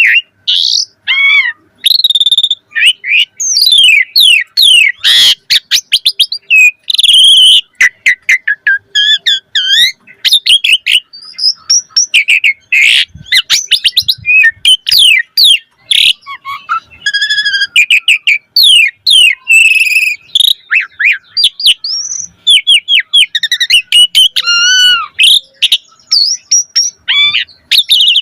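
Asian pied starling (jalak suren) singing without pause: a fast, loud, ever-changing run of whistles, chattering notes and rising and falling sweeps, with short breaks between phrases. This is the full-repertoire song, packed with copied notes, that keepers play to get other starlings singing.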